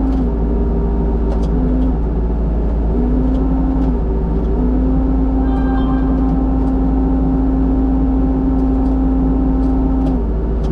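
Skid steer engine running steadily and loud, its pitch dipping and coming back up several times as engine speed shifts. A brief higher whine is heard about halfway through.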